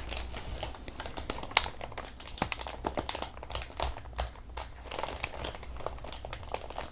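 Packing paper crinkling and rustling as it is handled, with irregular crackles and a few sharper clicks.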